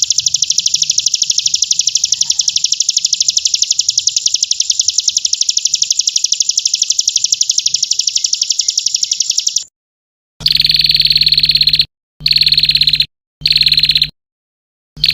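Recorded high, rapid buzzing trill, played as an 'isian' filler song for training a white-rumped shama. It runs unbroken for about ten seconds, then cuts off dead. Three short bursts of about a second each follow, with a low hum under them and dead silence between.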